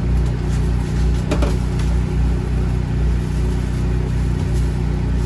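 Steady low mechanical hum of running machinery, with a faint click about one and a half seconds in.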